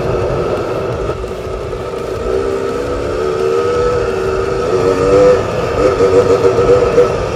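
Off-road motorcycle engine running under throttle, its pitch wavering and climbing from about two seconds in as it revs.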